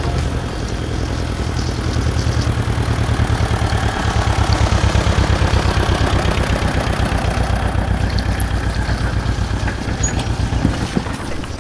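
Small remote-control toy helicopter's motor and rotor blades whirring in flight, with a fast, even flutter, louder in the middle.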